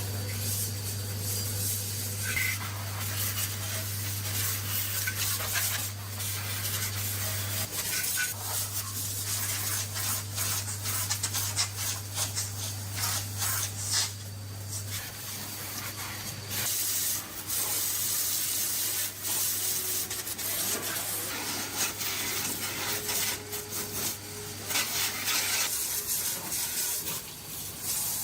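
Rough rubbing and scraping on rusty engine parts, many short strokes with a hiss, over a steady low hum that weakens about halfway through.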